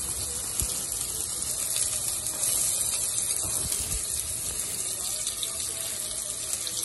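Sliced onion and garlic sizzling in hot olive oil in a stainless steel pot: a steady hiss.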